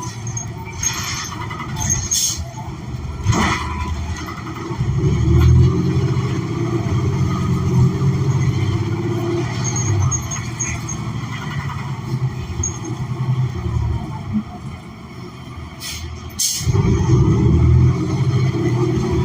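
Inside the cabin of a 2016 New Flyer XN40 city bus under way: its Cummins Westport ISL G natural-gas engine and drivetrain running, getting louder about four seconds in, easing off about two-thirds of the way through, then loud again after a brief break. A few sharp clicks and rattles sound over it.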